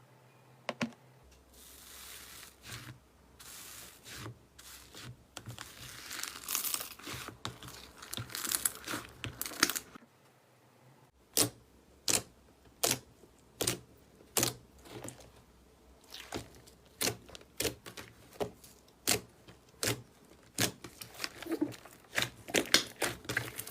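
Slime being handled close to the microphone: several seconds of dense crackling, a brief pause, then a run of sharp pops and clicks, one or two a second.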